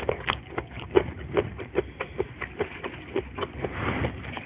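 Close-miked mouth chewing a mouthful of rice with chilli-sambal shrimp, with wet smacking clicks about two to three times a second. Near the end comes a brief rustle of raw lettuce leaves being handled.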